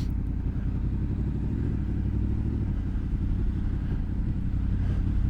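Honda VFR motorcycle's V4 engine running steadily while being ridden, a low even note with light road noise.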